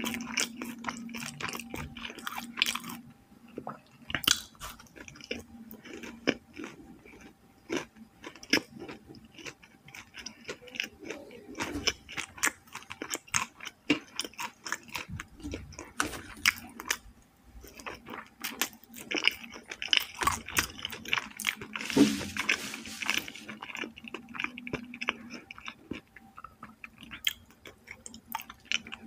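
A person chewing food close to the microphone, with many small crunches and mouth clicks and a louder burst of crunching about three-quarters of the way through.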